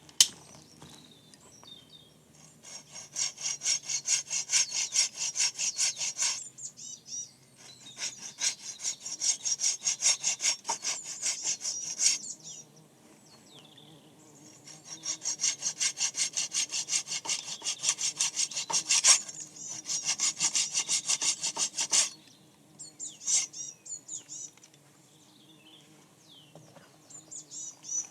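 Hand saw cutting through wood in three bouts of quick, even strokes, about four a second, with short pauses between them. A few light knocks follow near the end.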